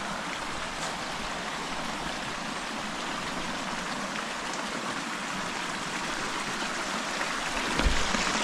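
Small stream flowing steadily, a continuous rush of running water. A brief low thump near the end.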